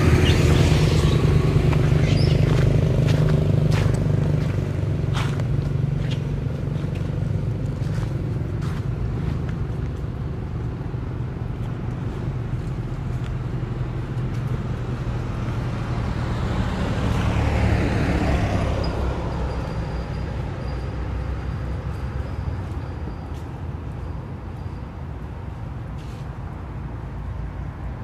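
Car engine idling with a steady low hum, with scattered light taps in the first several seconds. About two-thirds of the way through, another vehicle passes, swelling and then fading.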